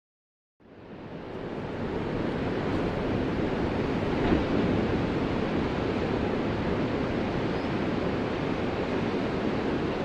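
Ocean surf: a steady wash of waves that fades in from dead silence just under a second in, swells for a second or two, then holds even.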